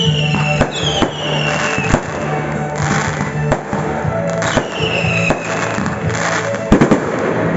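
Fireworks going off: a series of sharp bangs, with a quick cluster of loud cracks near the end, and several whistles that fall in pitch. Music plays underneath.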